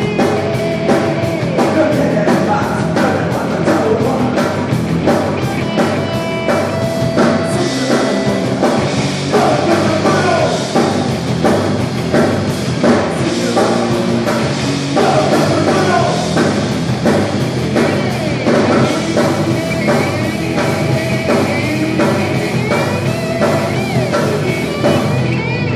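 Punk rock band playing live: fast, steady drums with cymbals, distorted electric guitar and bass, and sung vocals. The drums and cymbals stop just before the end.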